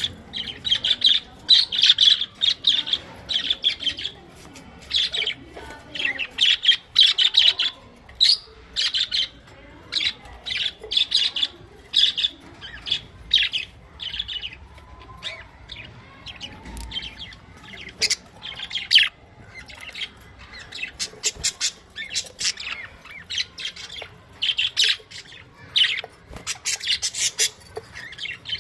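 Budgerigars chirping and chattering in quick bursts of warbling, with short pauses between.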